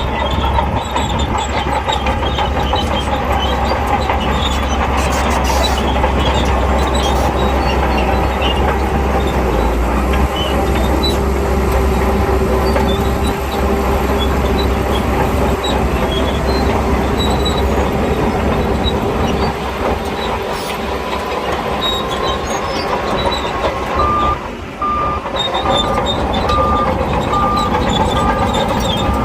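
Shantui crawler bulldozer working: its diesel engine runs steadily under load while the steel tracks clatter and clank. Near the end a reversing alarm starts beeping, evenly spaced at a little over one beep a second.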